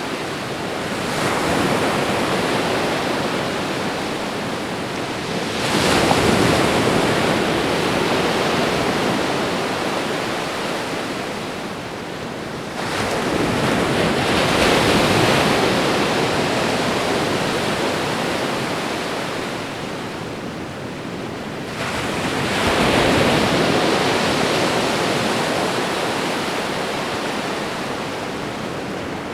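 Ocean waves breaking and washing up a shore. Each wave rises sharply about 1, 6, 13 and 22 seconds in, then fades slowly as it runs back.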